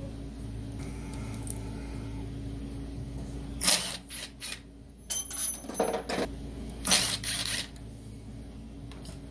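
Several short clicks and clatters of tools and small parts being handled on a workbench, over a steady low hum.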